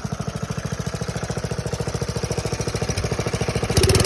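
Lawn tractor engine, fitted with a replacement Kohler carburetor, running with an even, fast firing pulse; the owner says it is still running rich. Near the end it gets louder with a burst of rougher noise.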